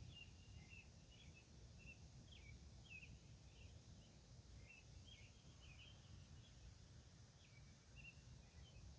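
A bird singing faintly in a run of short, varied chirps, one after another, over a low steady rumble.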